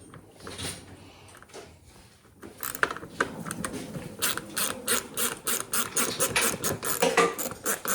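Ratchet wrench clicking rapidly, about five clicks a second, starting about two and a half seconds in, as a fastener on the pit bike engine's head is worked.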